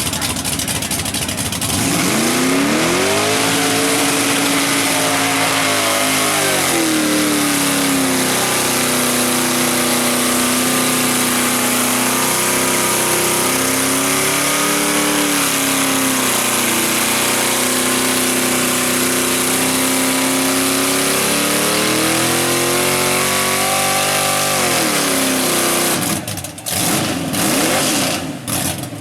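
Mud truck on tractor tires running flat out through a mud pit: the engine climbs to high revs about two seconds in and holds a steady high pitch with a few brief dips and rises, then its revs drop away about four seconds before the end.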